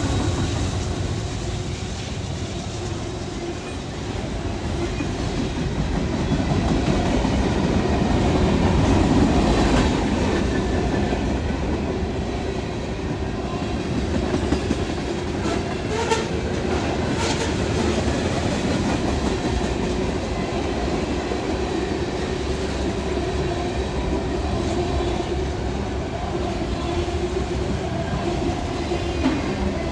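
Norfolk Southern freight train rolling past, a steady rumble of cars on the rails with a few sharp clicks about halfway through as the wheels cross rail joints.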